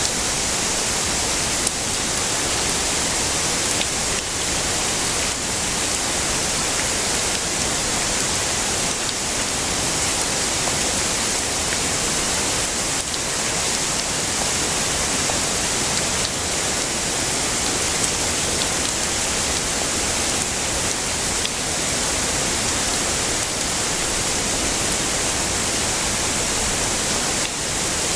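Heavy rain falling as a steady, dense hiss, with no change across the stretch.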